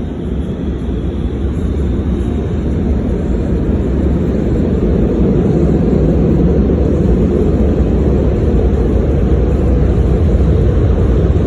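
Car wash drying blowers running, a loud steady rush of air heard from inside the car. It grows louder over the first few seconds, then holds.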